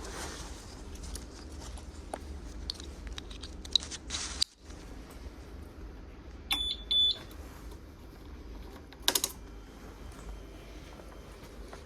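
Riding sound of a scooter: a steady low rumble with scattered light clicks, cutting out for a moment about four seconds in. A little past halfway come two short, high-pitched electronic beeps, and a sharp click follows a couple of seconds later.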